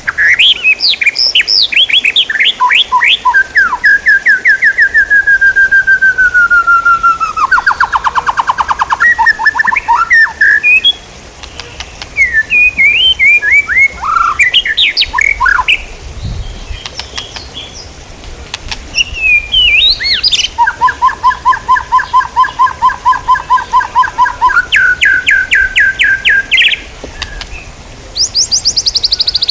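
A songbird singing in varied loud phrases: fast runs of repeated notes, trills and sliding whistled notes, with brief pauses between phrases.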